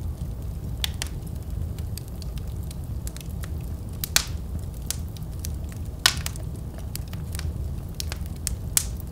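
Wood fire burning in a fireplace: a steady low rumble of the flames with scattered sharp crackles and pops, the loudest about four, six and nine seconds in.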